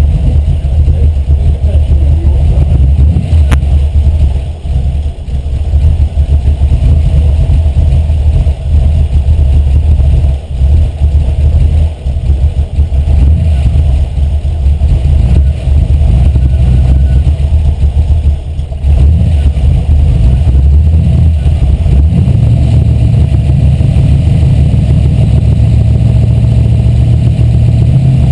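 Carbureted 5.0-litre V8 running at a low idle, loud and a little uneven with brief dips, while its idle mixture needle is being set. Near the end it settles into a steadier, slightly faster idle.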